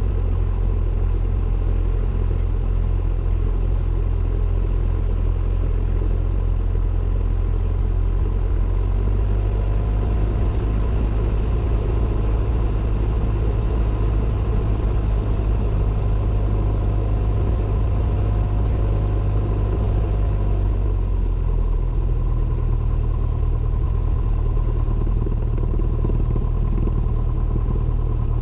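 Cessna 172N's four-cylinder Lycoming engine and propeller running steadily, a low drone heard inside the cockpit. Its pitch shifts slightly about a third of the way in and again about three quarters of the way through.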